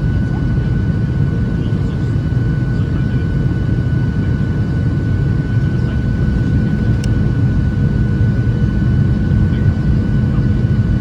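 Steady cabin noise of a Boeing 737-700 in flight: a loud, even rumble of engines and airflow with a constant whine from the CFM56 turbofans.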